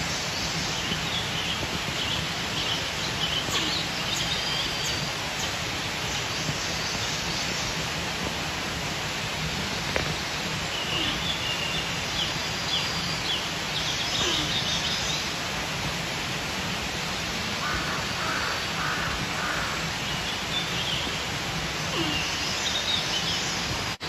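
Birds calling in a forest in scattered bursts of short chirping notes, several times, over a steady outdoor hiss.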